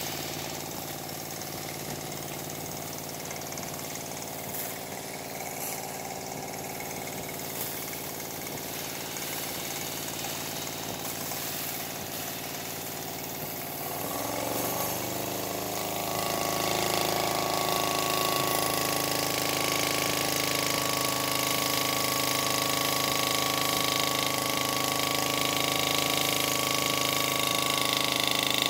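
Small home-built wobbler (oscillating-cylinder) steam engine running steadily under steam. About halfway through it speeds up: its beat rises in pitch and gets louder, then holds steady at the faster speed.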